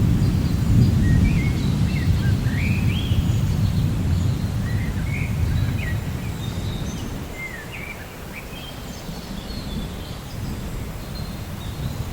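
Low rolling rumble of thunder, loudest in the first few seconds and easing off past the middle, under birds chirping throughout in short rising and falling calls.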